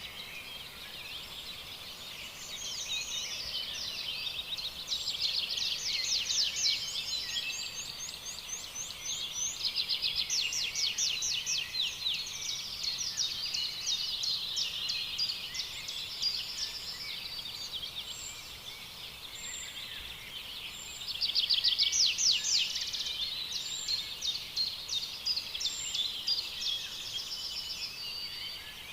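Small birds chirping rapidly and continuously, with dense high-pitched calls that swell into louder bursts several times. These are typical of chicks begging while being fed.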